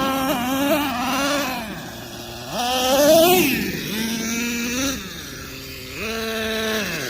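Traxxas Nitro Revo 3.3's small two-stroke nitro engine running under throttle, its pitch rising and falling several times as the RC truck speeds up and eases off.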